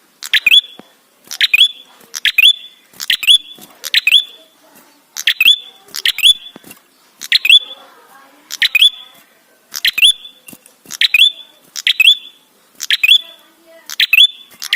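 Tailorbird (prenjak kepala merah) giving loud, sharp, repeated calls about once a second, each a quick pair of downward-sweeping high notes.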